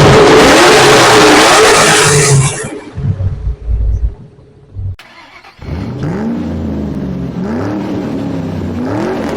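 Car engine revving, very loud for the first couple of seconds. After a cut about halfway through, an engine is blipped over and over, its pitch rising and dropping back about once a second.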